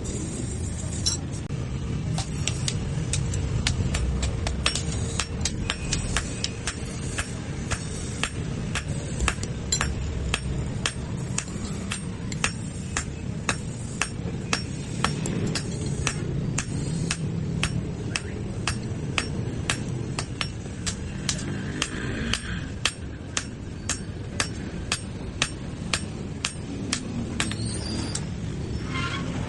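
Hammer striking steel on an anvil in a steady run of blows, about two a second, while a blade is forged. A steady low rumble runs underneath.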